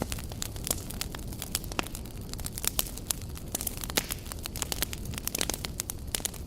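Wood campfire burning, with sharp irregular crackles and pops over a low steady rumble of flame.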